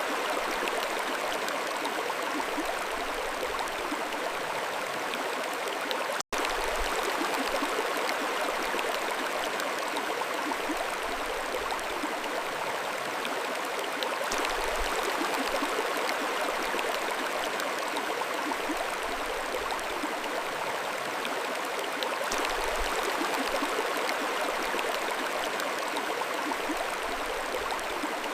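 Mountain stream flowing over rocks: a steady, even rush of water. The sound cuts out completely for a split second about six seconds in.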